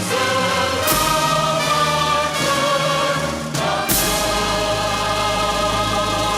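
Choir singing with instrumental accompaniment in long held chords, moving to a new chord about one second in and again about four seconds in.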